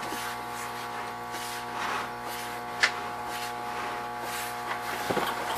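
Steady electrical hum with a faint hiss, broken by a single sharp click about three seconds in.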